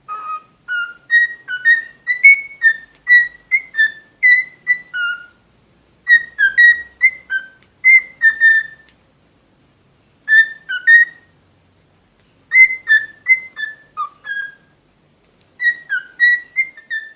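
A bird whistling short, clear notes that shift up and down in pitch, in phrases of several notes broken by pauses of a second or two.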